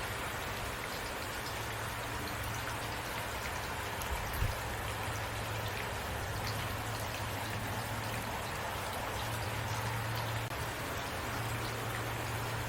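Heavy rain falling steadily, an even hiss of rain with many small drop hits on surfaces, and one brief louder knock about four seconds in.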